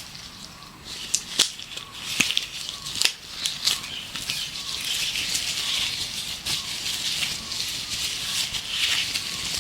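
Gloves rubbed and handled close to the microphone: sharp snaps and crackles for the first few seconds, then a steady rustling hiss. Faint birdsong chirps in the background.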